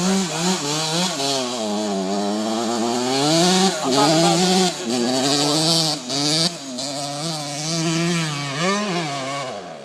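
Suzuki RM125 two-stroke dirt bike engine revving hard under load, its pitch repeatedly surging up and falling back as the throttle is worked.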